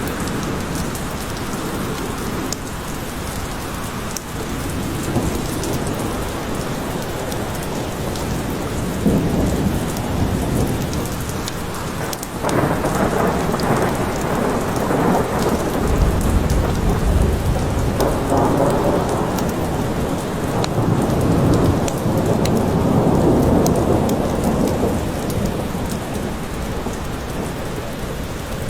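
Steady heavy rain in a forest, with long low rolls of thunder rumbling through the middle of the stretch, swelling and fading several times.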